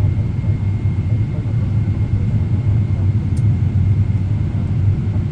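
Steady low cabin rumble of a Boeing 777-300ER in flight on approach, engines and airflow heard from inside the cabin, with a faint steady whine above it.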